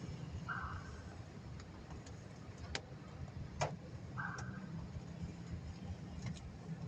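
Steady low rumble of a car heard from inside the cabin. A short mid-pitched sound comes back about every three and a half seconds, and two sharp clicks fall near the middle.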